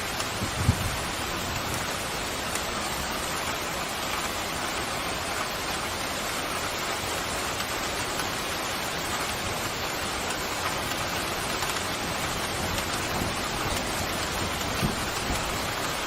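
Steady, heavy rain falling in an even hiss, with a brief low thud about a second in and another near the end.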